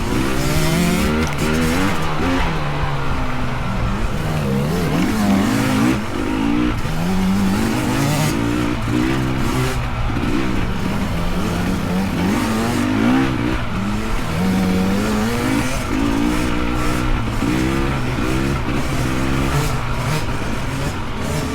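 Dirt bike engines revving up and down over and over as the riders work through trail sections. At times more than one engine can be heard at once.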